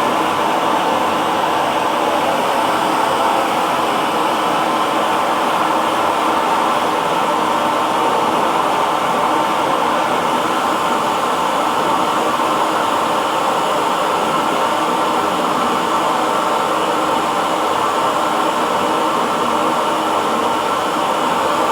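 Hair dryer running steadily: a constant rushing whir of fan and blown air, unchanging in level.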